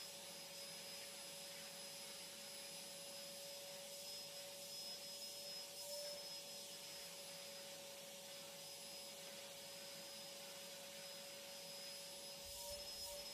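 Vacuum cleaner running steadily, a faint even hum with a thin constant whine.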